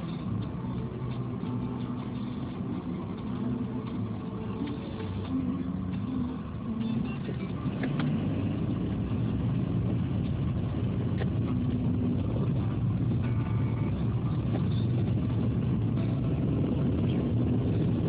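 Car engine and road noise heard from inside the cabin while driving, a steady low rumble that grows louder about eight seconds in.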